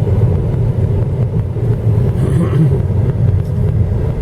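Steady low rumble of a car driving, heard from inside the cabin: engine and tyre noise with no sharp events.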